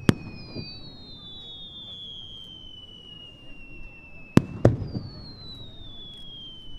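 Distant aerial firework shells bursting: a sharp bang with a rumbling tail right at the start, then two more bangs in quick succession about four and a half seconds in. Between the bursts, high thin whistling tones fall slowly in pitch.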